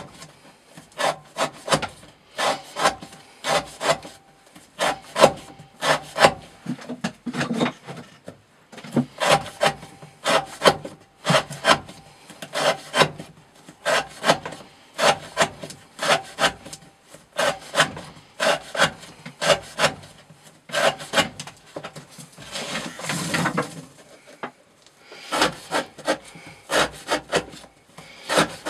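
Steel knife blade repeatedly slicing through rope against a wooden board during a rope-cutting edge-wear test, about two strokes a second. About two-thirds of the way through, the strokes pause for a longer scraping rustle.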